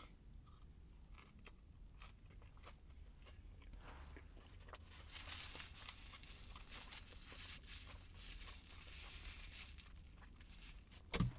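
A person chewing a bite of turkey sandwich with shredded lettuce and mayonnaise: soft, wet crunching and mouth sounds, fuller for a few seconds in the middle, over a faint low hum.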